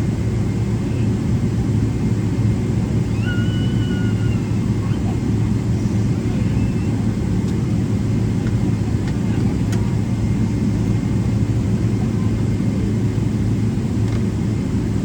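Steady low cabin rumble of a Boeing 777-300ER taxiing, its GE90 engines running at taxi power, with a constant hum underneath.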